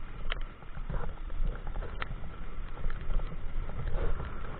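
Riding a bicycle in pouring rain: steady low wind and road rumble on the microphone, with irregular sharp taps and clicks.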